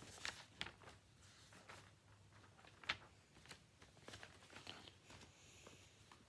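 Near silence: room tone with a few faint, short clicks, the sharpest about three seconds in.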